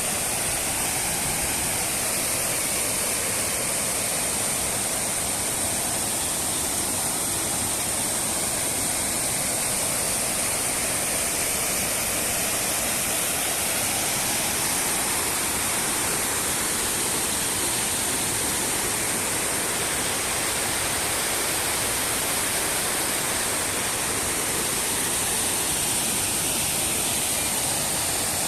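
Waterfall: a steady rush of falling water, an even hiss with no breaks.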